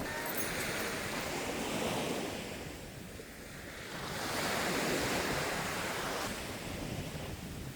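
Surf breaking and washing up a beach, two swells of wave noise that build and fall away, with wind buffeting the microphone.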